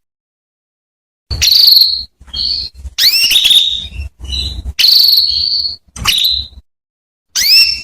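Female canary calling: a series of short, loud whistled phrases of rising sweeps and quick trills, with brief gaps between them, starting after about a second of silence. This is the kind of female call played to prompt male canaries to sing.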